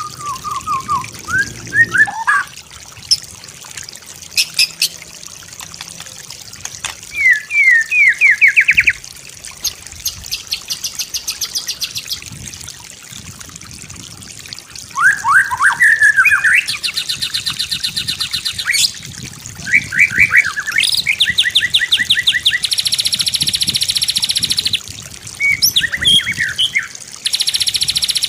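White-rumped shama (murai batu) singing a varied song: clear whistled phrases that sweep up and down, alternating with long, fast trills of rapidly repeated high notes.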